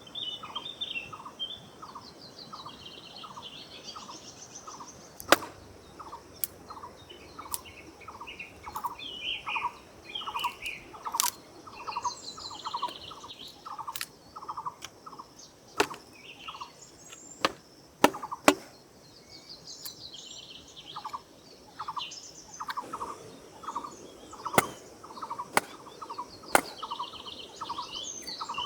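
Birds singing outdoors: one repeats a short note about twice a second, stopping for a few seconds past the middle and starting again, over higher warbling song. Scattered sharp knocks cut through, the loudest about five seconds in and a pair near eighteen seconds.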